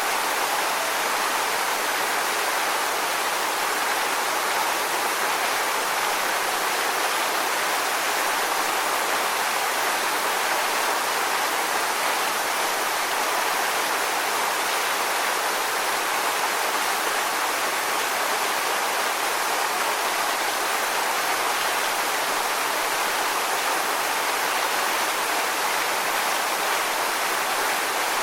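Steady rushing water: an even, unbroken hiss with no swells or separate splashes.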